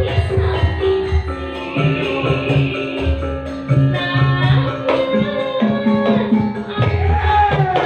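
Live Javanese sragenan band music with a steady low beat under a held melody; a pitched line glides up and down near the end.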